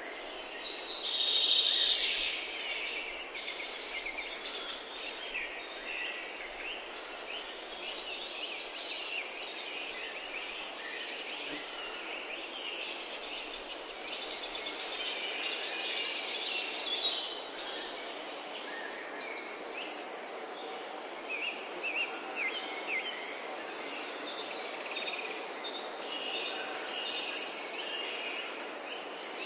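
Birds singing and chirping: repeated high whistled phrases, several sliding down in pitch, with twittering beneath, over a faint steady hiss.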